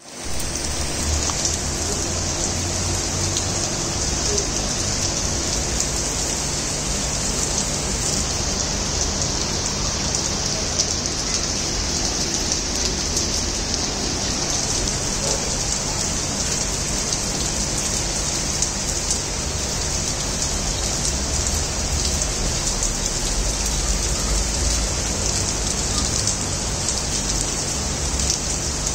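Steady rain falling on paving, grass and leaves: a continuous even hiss with the fine patter of drops.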